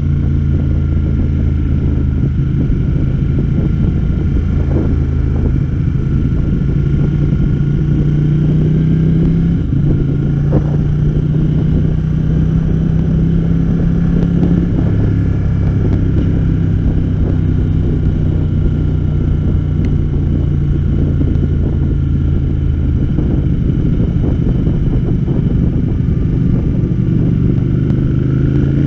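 Ducati Panigale sport bike's engine running steadily at road speed, heard from the rider's position, its pitch shifting slightly a few times with the throttle.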